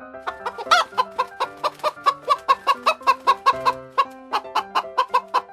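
Hen clucking in a rapid run of short clucks, about five a second, with one louder squawk about three-quarters of a second in.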